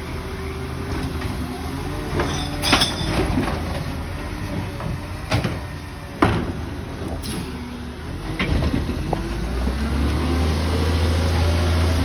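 Labrie Helping Hand side-loading garbage truck running, with several sharp metal clanks and bangs from its lifting arm and body. In the last few seconds a rising hydraulic whine and a louder, deeper engine hum come up as the truck works.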